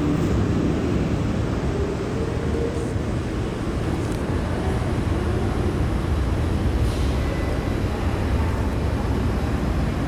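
Boeing 727-200 Advanced freighter taking off, its three Pratt & Whitney JT8D turbofans at takeoff power: loud, steady jet noise, heaviest in the low end.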